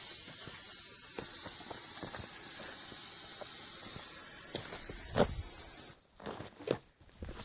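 Aqua Net hairspray hissing steadily out of an aerosol can, charging a potato cannon with propellant. A sharp knock comes about five seconds in, and the hiss cuts off abruptly just after it. Scattered clicks and handling noises follow.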